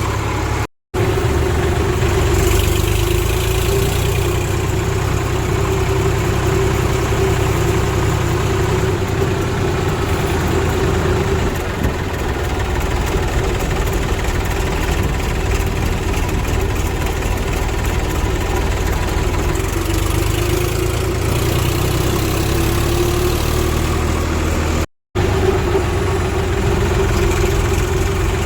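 Heavy diesel engine running steadily with a deep rumble and a slight rise and fall in pitch, the sound cutting out twice for a split second.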